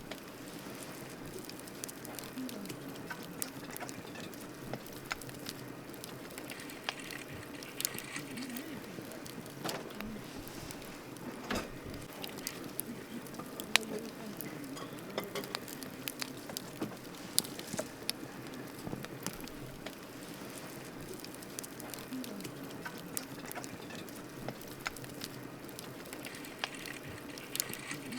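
Wood campfire burning, with irregular sharp crackles and pops over a steady soft hiss.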